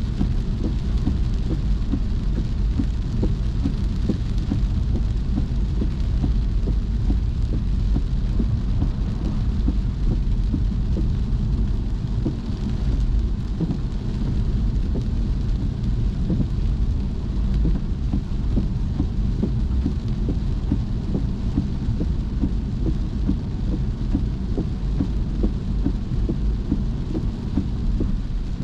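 Rain falling on a moving car, with many small drop hits over a steady low rumble of the road and engine.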